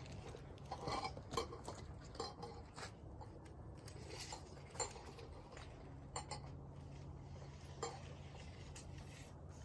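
Scattered light clinks and taps from hands-on carpentry work on a deck: a run of them over the first few seconds, then single ones spread out, over a faint steady hum.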